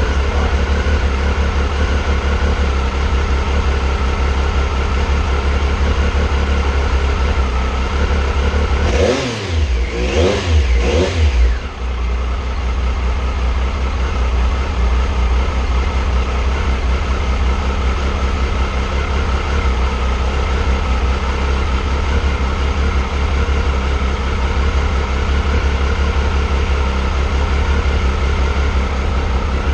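2001 Triumph Sprint ST 955i's inline three-cylinder engine idling steadily, revved three times in quick succession about nine to eleven seconds in, running on its freshly reinstalled fuel pump.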